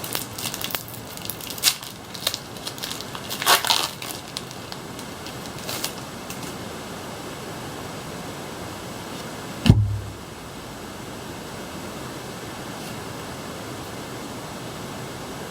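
Foil Pokémon booster pack crinkling and crackling as it is torn open and the cards are handled, in a cluster of sharp rustles over the first few seconds. A single dull thump comes about two-thirds of the way through, over a steady background hiss.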